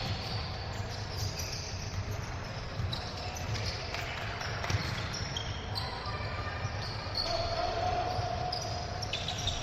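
Basketball game in a gym: a ball bouncing on the hardwood court, sneakers squeaking in short, high bursts, and voices calling out, echoing in the hall.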